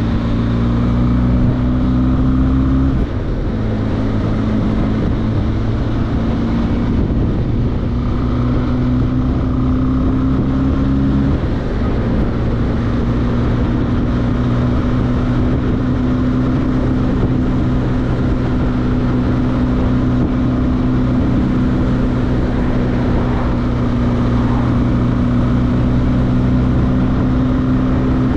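Benelli TRK502X's parallel-twin engine running on the move, with wind rushing over the microphone. The engine note climbs slowly and shifts down a little about 3 seconds and again about 11 seconds in, then holds steady.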